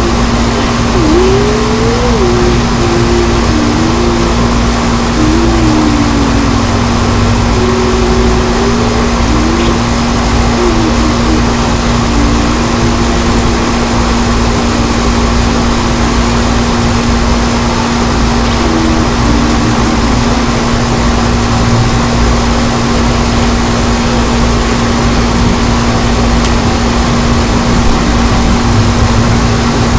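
Strong wind blowing hard across the microphone, a loud, steady rushing noise, with a wavering whistle-like tone in roughly the first twelve seconds.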